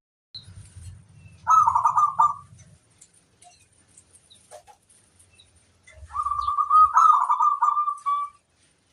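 Zebra dove (perkutut) cooing: a short burst of rapid staccato coos about a second and a half in, then a longer run of coos from about six seconds in.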